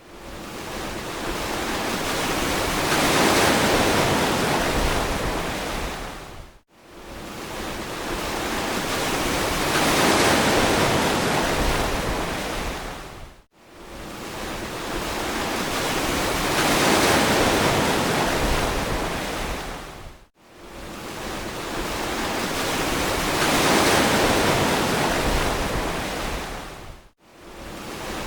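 Ocean surf washing onto a beach, a wave swelling and fading about every seven seconds, with a brief drop to silence between swells where the recording loops.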